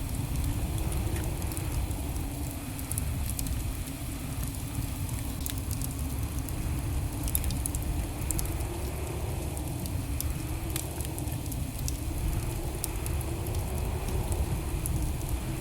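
Wood fire burning in a fireplace: a steady low rumble of flames with many small, scattered crackles and pops.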